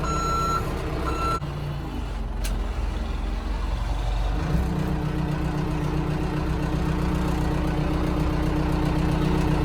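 Backhoe's reversing alarm beeping in even pulses, stopping about a second in, over its diesel engine running; about four and a half seconds in the engine revs up and holds a steady higher speed.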